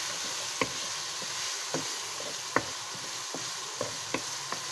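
Minced meat and chopped tomatoes sizzling in oil in a wok while being stir-fried (bhuna) with a wooden spoon. A steady sizzle runs throughout, and the spoon knocks against the pan about six times.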